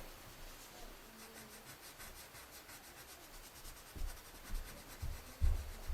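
Pencil drawing on paper: faint, light scratching strokes as an oval is sketched. A few soft low knocks come in the last two seconds.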